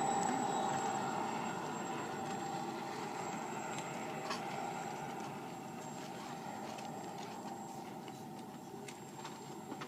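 Ultra Flash RC jet model airplane passing and flying off, its steady rushing jet noise with a faint whine fading gradually over several seconds.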